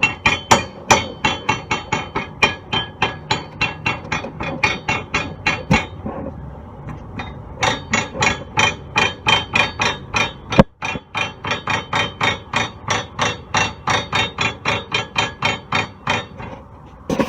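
Rapid metallic knocking as a GMC Envoy's rear stabilizer (sway bar) link is struck over and over, about four ringing blows a second. The blows come in two long runs with a short break about six seconds in, and one sharper crack near the middle of the second run. The knock comes from play in the worn rear sway bar link, the kind of looseness behind a clunk over bumps.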